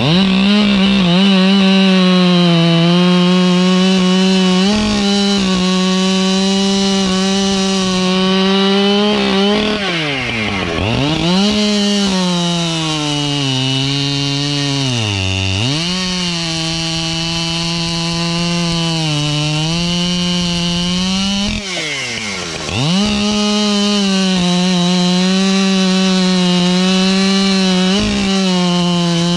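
Two-stroke gas chainsaw running at high revs while cutting through a dry ash log. Its pitch sags under load and drops sharply a few times before climbing back up. The loading down fits rakers filed too low, so the chain bites too aggressively and the saw has to be held up out of the cut.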